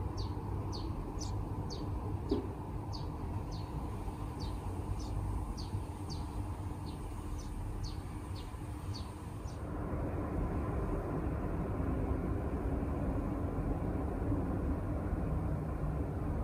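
A bird outside calling a long series of short, high, falling chirps, about two a second, that stops about nine and a half seconds in. Under it runs a steady low rumble of distant traffic, which gets louder around ten seconds in.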